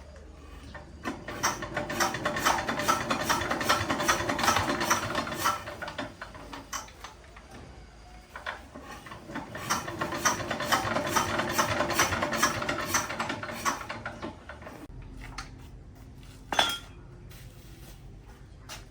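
Rapid metallic clicking and rattling in two bouts of about five seconds each, each swelling and then fading, followed by a single sharp knock near the end.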